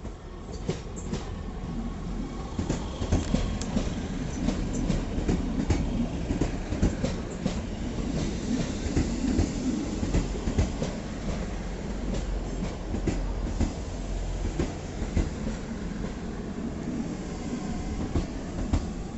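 A train running past on the rails: a steady low rumble with repeated clicks of the wheels over rail joints, building up over the first couple of seconds.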